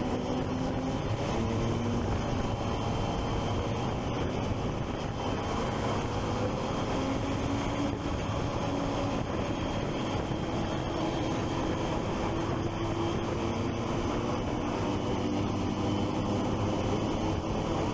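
Triumph Street Triple 675's inline three-cylinder engine running on the move under steady wind and road noise, its pitch drifting gently up and down.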